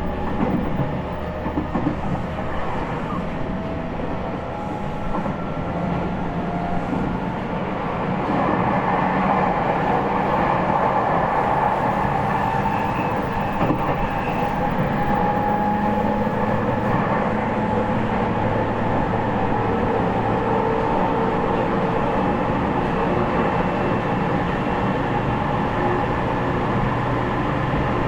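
E501 series electric train heard from inside motor car MoHa E501-8, running along the line: the Toshiba IGBT inverter-driven traction motors give a set of steady tones over wheel and rail noise. It grows louder about 8 seconds in and then holds steady.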